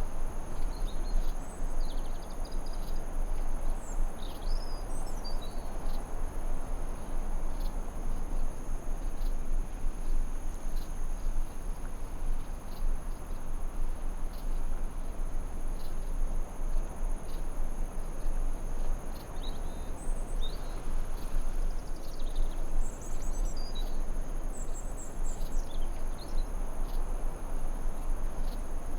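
Forest ambience: a steady high chirring of crickets or other insects over an even rushing background, with birds chirping and trilling now and then, in clusters during the first few seconds and again past the middle.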